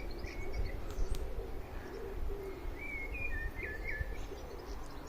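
Birds calling: two short bursts of high chirping phrases, one about half a second in and another from about three seconds in, over a lower wavering cooing call. A faint low rumble runs underneath.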